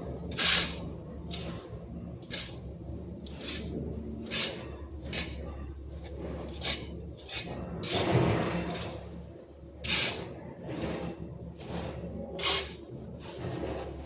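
Repeated short scraping strokes, about one a second and slightly irregular, like a hand tool worked over ground or plants, over a low steady hum.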